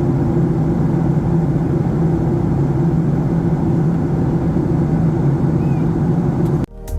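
Steady roar of a Boeing 737-800's cabin in flight, engine and airflow noise heard from a passenger seat. It cuts off abruptly near the end as plucked guitar music starts.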